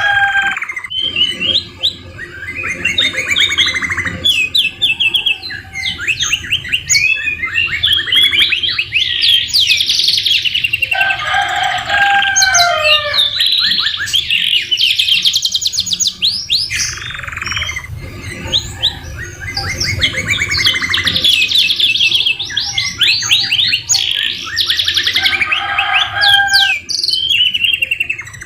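Two domestic canaries singing without a break in fast rolling trills and rapid repeated chirps. Their song is filled with mimicked oriental magpie-robin phrases, and lower whistled notes come in now and then.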